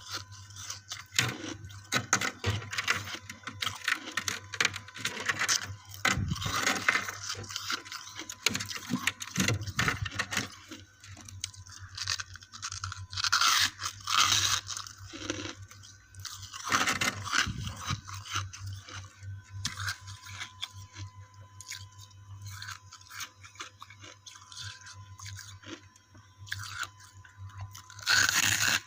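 Frosty ice chunks being bitten and chewed close to the microphone: irregular squeaky crunches and crackles, thickest in the first ten seconds, with louder bites about 13, 17 and 28 seconds in.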